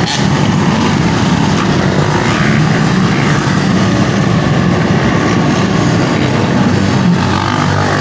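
Loud vehicle engine running with a steady low drone.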